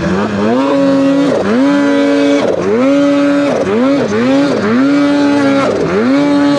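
A mountain snowmobile's engine revved up and down over and over, its pitch rising and falling about six times, as the sled bogs down on a steep slope with its track finding no traction.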